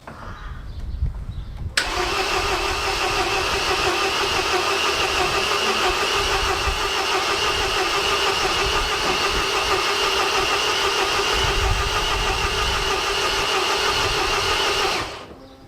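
Starter motor cranking the MINI R56's 1.6 HDi DV6 diesel engine: a steady, even whine that starts abruptly about two seconds in and runs unchanged for about thirteen seconds without the engine firing, then stops. This is the sign of a no-start after the engine rebuild.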